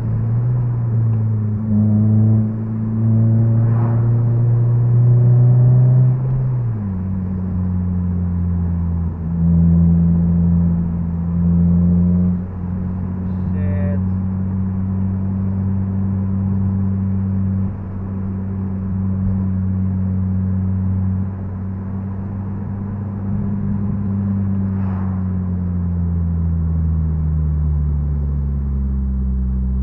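Honda Civic Si's K20Z3 inline-four engine droning steadily from inside the cabin as the car cruises. The drone shifts pitch a couple of times and falls away over the last few seconds as the car slows.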